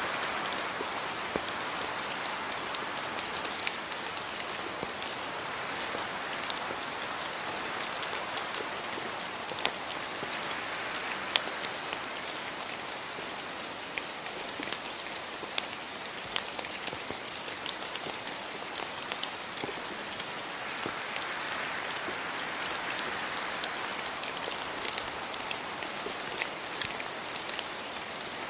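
Steady rain falling, an even hiss dotted with many sharp individual drop hits.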